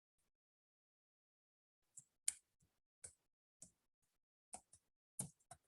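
Irregular clicking of computer keys, about ten short clicks starting about two seconds in after near silence.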